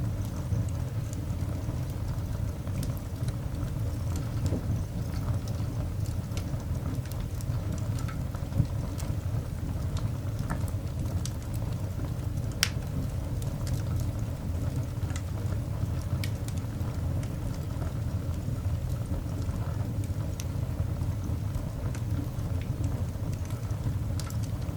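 Coal fire burning in a cast iron grate: a steady low rumble with scattered small crackles and pops, two sharper pops standing out near the middle.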